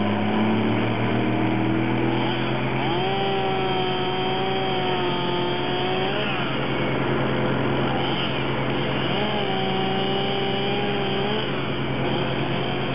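An engine of the tree crew's machinery running steadily, with a higher wavering whine rising over it twice, the first time for several seconds.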